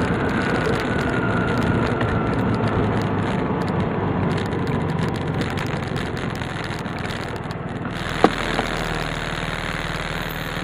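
Tsurugi 150's engine running steadily at low revs, easing slightly over the stretch, with one sharp click about eight seconds in.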